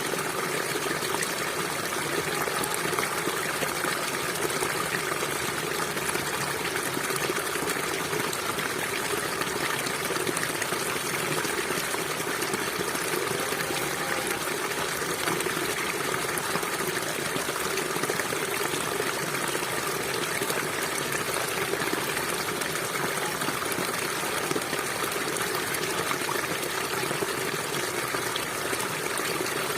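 A stream flowing steadily over rocks, a continuous rush and trickle of water.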